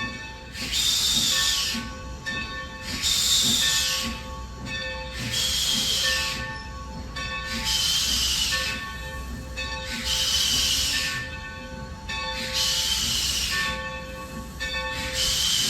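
Coal-burning steam locomotive letting off steam in regular hissing bursts, about one every two and a half seconds, each with a slightly falling whistle-like edge.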